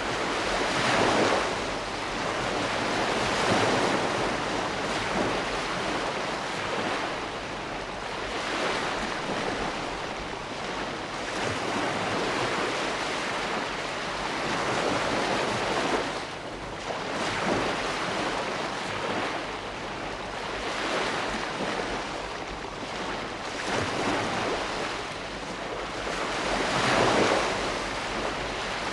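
Ocean waves breaking and washing on a shore, a continuous rush of surf that swells with each wave every few seconds.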